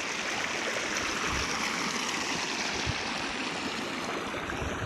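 Small river flowing, a steady, even rush of running water.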